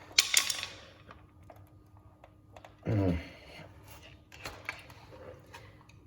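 A quick burst of clattering clicks, then scattered small clicks and taps of hard parts being handled as a battery and its wiring are forced into a scooter's cramped battery compartment. A short grunting voice sound comes about three seconds in.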